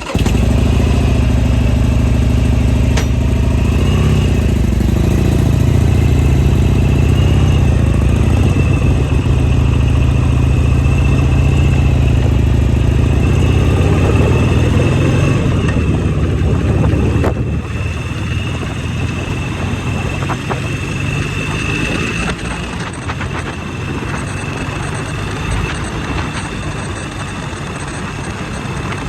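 Motorcycle engine coming in suddenly and running steadily and loud; about 17 seconds in it drops in level and turns more hissy and less throbbing.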